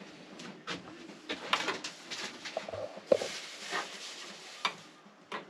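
Scattered short clicks, knocks and light clatter of cookware and an electric oven's controls being handled, the sharpest knock about three seconds in.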